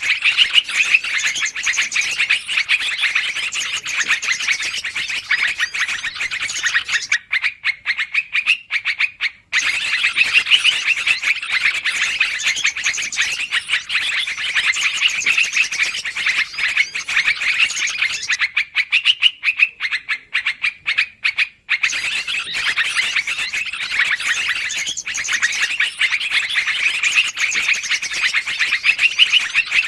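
Yellow-vented bulbuls (trucukan) in a busy, continuous chatter, a lure call for trapping small birds. The chatter thins out twice, about 7 and 19 seconds in.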